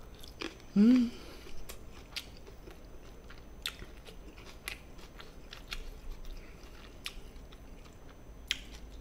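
Close-miked mouth sounds of a man chewing a mouthful of gochujang-marinated chicken and sliced Cheongyang green chili: scattered wet smacks and clicks. About a second in there is one short hummed sound, rising then falling.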